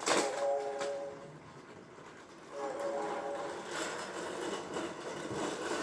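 VTech toy train's speaker sounding an electronic train whistle twice, a short chord of steady tones lasting about a second each, the second one about two and a half seconds in, followed by a noisier train sound effect.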